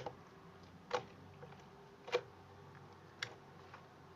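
Hand-kneaded slime giving four short, sharp clicks about one a second.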